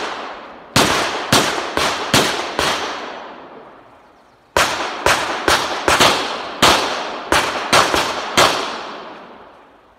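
9mm CZ Shadow 2 pistol fired in rapid strings during a practical shooting stage. Five shots in under two seconds, a pause of about two seconds, then nine more shots, each report ringing out briefly.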